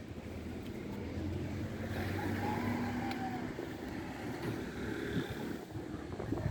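A motor vehicle's engine running, a steady low hum that grows louder towards the middle and then eases off.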